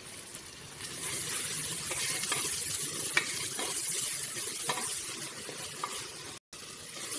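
Chopped onions and tomatoes sizzling in hot oil in an aluminium pressure cooker while a wooden spatula stirs them. The sizzle grows louder about a second in, and the spatula scrapes and taps against the pot a few times, the sharpest tap about three seconds in.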